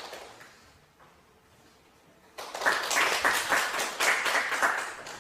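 A quick volley of sharp claps dying away, then after a pause of about two seconds a fast, even run of sharp claps, about five a second, for some two and a half seconds.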